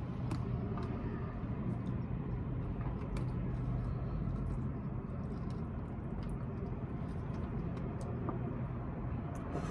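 Steady low hum of a car idling, heard from inside the cabin, with a few faint short clicks.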